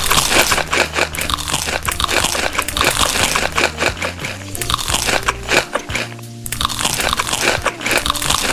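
Crunchy food being bitten and chewed close to the microphone, a rapid run of crunches, over background music.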